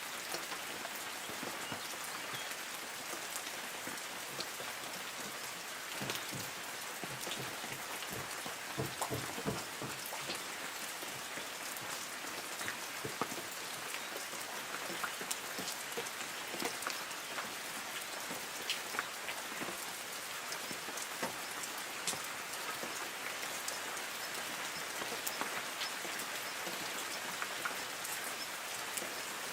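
Light rain falling on forest trees: a steady hiss with many separate drops ticking on leaves.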